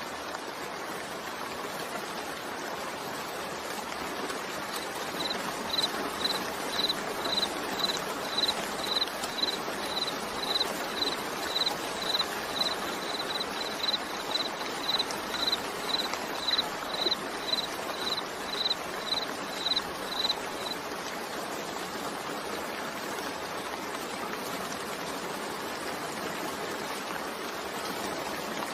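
Steady rain falling, an even hiss with no break. From about five seconds in to about twenty seconds in, a high-pitched beep repeats about twice a second over the rain.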